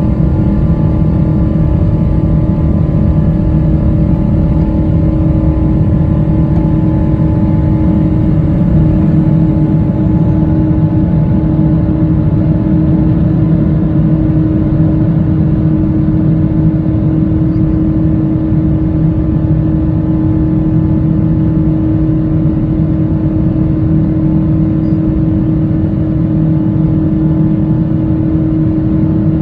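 Pratt & Whitney PW4090 turbofans of a Boeing 777-200ER at takeoff power, heard inside the cabin beside the wing: a steady deep rumble with a ringing whine held on a few steady tones.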